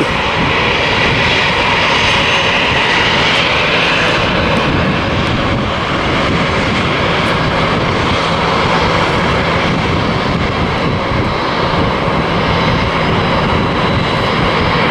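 Jet airliner engines running loud and steady: a continuous roar with no break.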